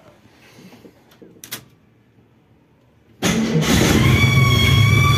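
Chevrolet Opala straight-six engine starting and running with both drive belts off. A click about a second and a half in, then the engine fires near the end and settles into a steady run with a high, steady whistle over it.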